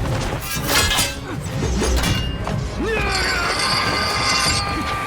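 Fight-scene soundtrack: dramatic music layered with repeated sharp hits, crashes and thuds. From about three seconds in there is a stretch of bright metallic ringing lasting a second and a half.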